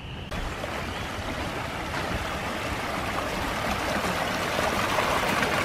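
Rain-swollen stream rushing and splashing, a steady wash of water that grows gradually louder.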